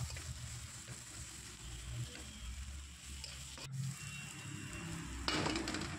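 Chopped onion and green chilli frying in mustard oil in a large metal kadai: a soft sizzle while a metal spatula stirs and scrapes across the pan. It gets louder in the last second or so.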